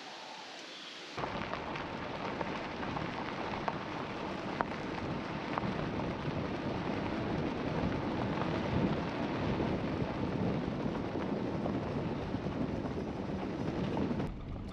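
Strong wind buffeting the microphone, a loud rumbling rush that starts suddenly about a second in, with a few sharp clicks.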